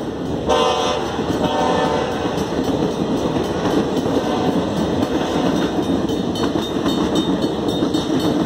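Diesel locomotive horn of a Union Pacific passenger train sounding twice briefly and fading in the first two seconds as the engine moves away. After that, the steady rumble and clatter of the passenger cars rolling past on the rails.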